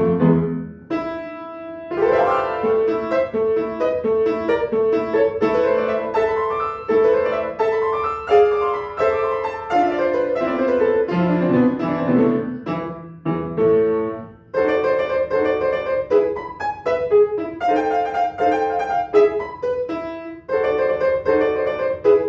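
Solo piano playing a quick passage of many short notes, with a brief break about a second in and another around fourteen seconds.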